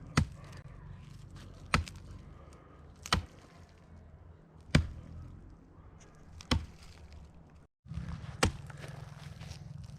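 Hatchet chopping into a log for firewood: six sharp strikes, each about a second and a half apart.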